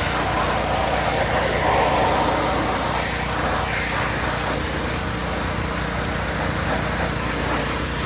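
Hot water pressure washer running steadily, its small engine humming under the hiss of the wand's jet spraying water against greasy equipment.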